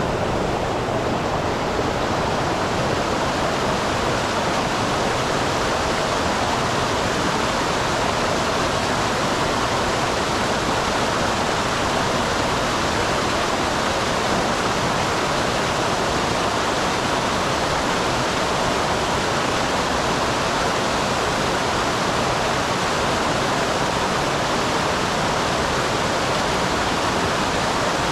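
Small waterfall on a mountain stream: water pouring and splashing in a steady, even rush.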